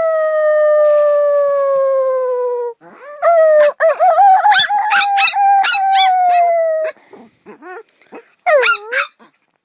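Pet dog howling: a long howl that slides slowly down in pitch, then a longer wavering howl, then a few short calls and a brief howl that dips and rises again near the end.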